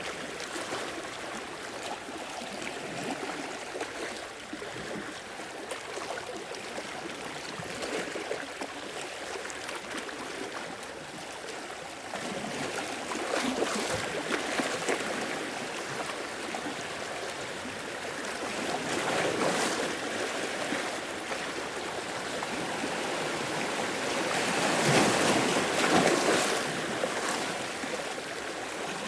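Sea waves washing in and breaking on the shore, swelling and easing several times, with the biggest surge near the end.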